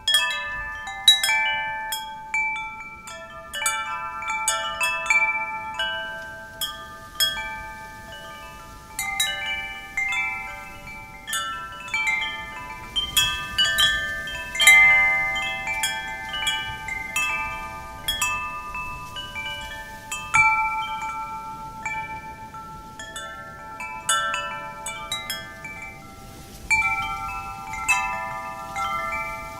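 Wind chimes ringing, struck irregularly and often, with many overlapping tones that ring on and die away.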